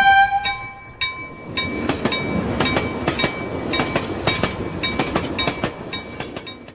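A bell chime fading out in the first second, then a train running past, its rumble dense with the clatter of wheels over rail joints, stopping abruptly at the end.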